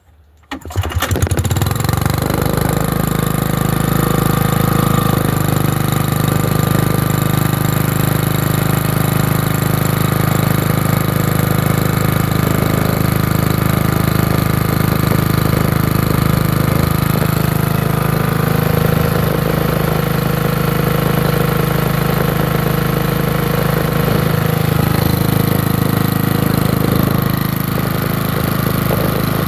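Small gasoline generator engine making a cold start: it catches about a second in, then runs steadily.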